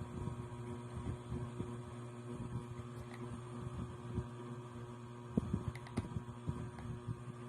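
Steady low electrical hum with faint, irregular soft clicks and taps over it, a few slightly louder ones past the middle.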